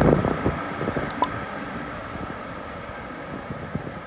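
Regio2N double-deck electric train running past the platform: wheels clattering and rumbling on the rails, the clatter heaviest at first and the sound fading as the last cars go by.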